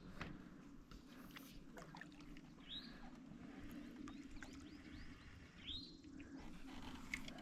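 A songbird giving a short chirp twice, about three seconds apart, over faint steady low background noise.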